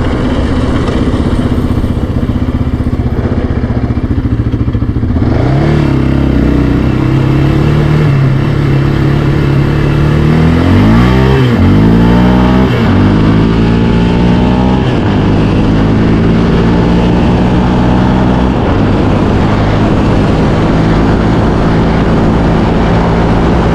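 Yamaha Raptor 700R ATV's single-cylinder four-stroke engine running under way, revving up and down several times in the middle, then holding a steady pitch.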